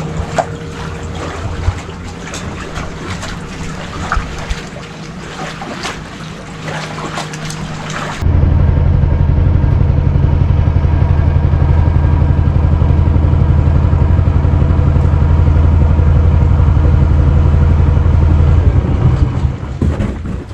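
Small gasoline engine of a Mokai motorized kayak running steadily under way, with wind and water noise and scattered knocks. About eight seconds in it becomes much louder and closer, a steady low hum that fades near the end.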